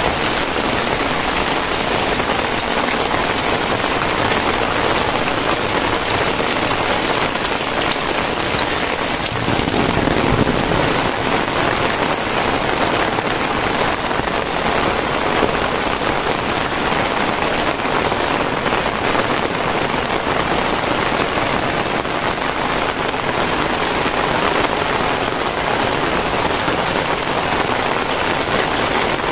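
Very heavy rain pouring down steadily in a dense, even hiss, swelling briefly about ten seconds in.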